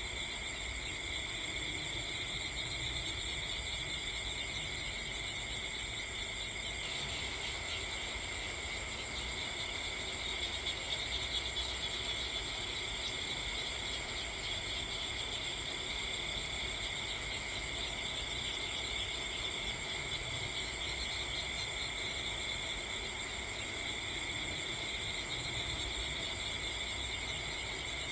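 Crickets chirping in a steady chorus, a shrill trill held at several high pitches, over a low steady rumble.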